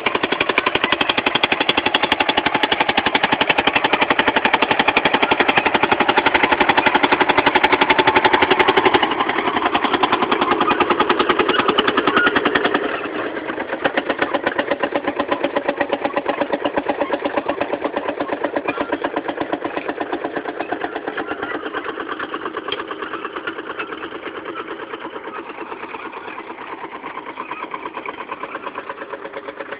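Fowler VF crawler tractor's single-cylinder two-stroke diesel engine running under load while ploughing, a rapid, even beat of exhaust pulses. It gets quieter in two steps, about a third of the way in and again near halfway, then fades a little further.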